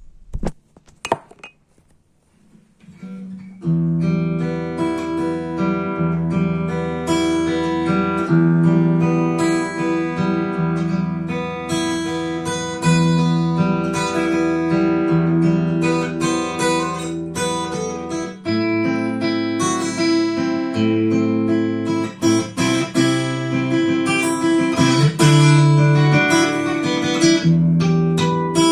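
Yamaha FGX730 acoustic-electric guitar being played: a few sharp clicks at first, then from about three and a half seconds in a steady run of chords and single notes ringing on.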